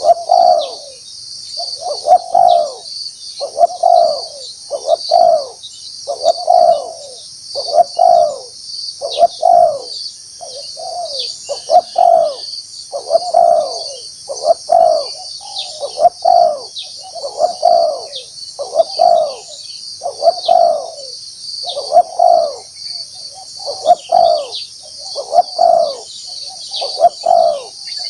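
Spotted dove cooing over and over, a short phrase of coos about every second and a half. Behind it runs a steady high-pitched insect chorus.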